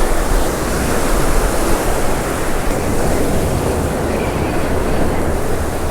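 Steady rush of surf washing onto the beach, with wind buffeting the microphone.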